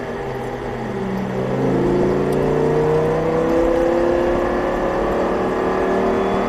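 Audi R8's V10 engine pulling hard under acceleration, its pitch climbing steadily for about four seconds in one gear and then levelling off.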